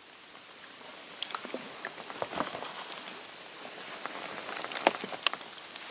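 Light water drips and small splashes with scattered clicks and taps over a steady hiss, as wet fishing gear is handled in a boat.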